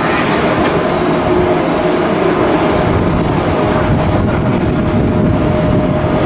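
Steady machinery noise from shipbuilding work, with a constant whine running through it and a faint click or two.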